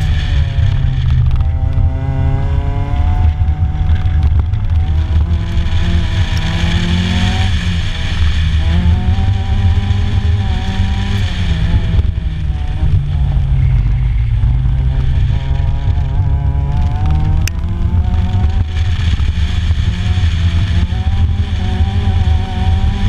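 Honda Civic's D16Y8 1.6-litre four-cylinder engine being driven hard through an autocross course. Its pitch climbs and drops every few seconds as it accelerates and lifts between cones. Heavy wind rumble sits on the outside-mounted microphone.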